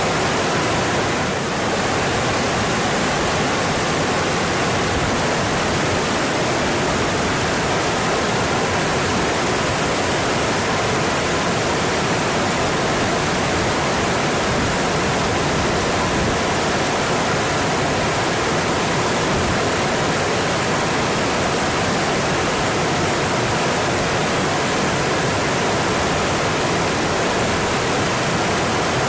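Mountain stream rushing over its rocky bed in a steady, even wash of water noise.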